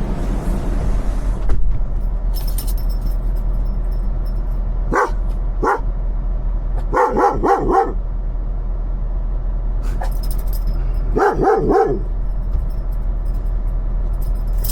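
A dog barking: a couple of single barks about five seconds in, then two quick runs of barks, under a steady low hum of the truck's idling engine.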